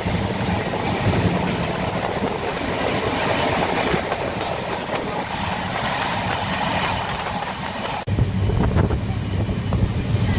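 Express passenger train running along the track: a steady rumble and rush of the wheels on the rails. About eight seconds in, the sound cuts off abruptly and is replaced by a lower, steady hum.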